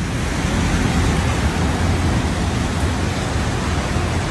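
Severe storm downpour: a dense, steady rush of heavy rain with a strong low rumble underneath.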